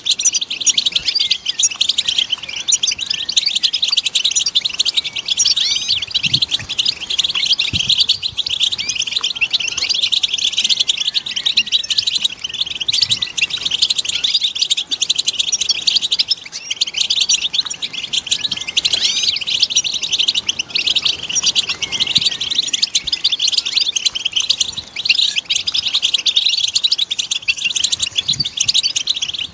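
A group of European goldfinches twittering together in a dense, unbroken chatter of quick high chirps and trills: excited contact and mating calls.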